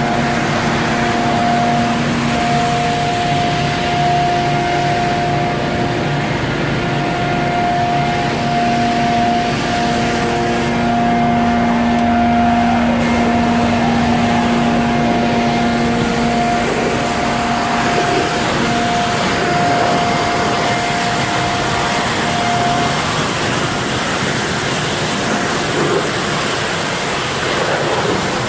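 Vacuum truck and wash truck running together during drain and sump cleaning, a loud, steady rushing noise with droning hum notes, the highest of which drops out about four-fifths of the way through.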